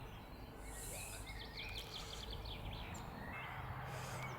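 Faint outdoor background noise, with a bird singing a quick trill of rapid high chirps about a second in.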